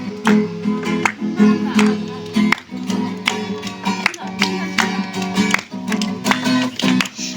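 Acoustic guitar strummed in a steady rhythm, playing the song's chords without singing.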